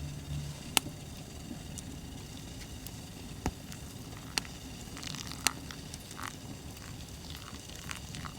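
Wood fire crackling, with a few sharp pops and lighter ticks scattered through it.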